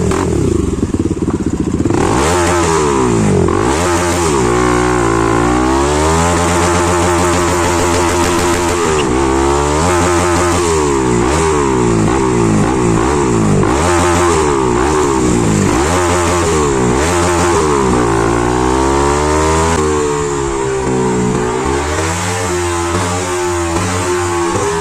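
Bajaj Pulsar NS200's single-cylinder engine, fitted with a loud aftermarket exhaust, revving up and down repeatedly. The pitch climbs and drops every couple of seconds.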